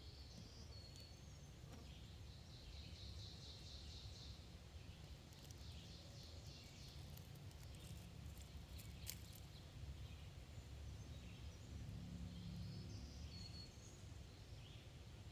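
Faint outdoor ambience: distant birds chirping and trilling now and then over a low, steady rumble of wind, with a few faint clicks about two-thirds of the way through.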